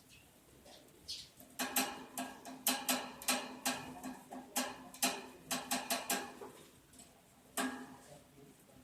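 Lovebirds giving a quick series of short, sharp, high chirps about a second and a half in, falling silent after about six seconds, with one more call near the end. A low steady hum runs underneath.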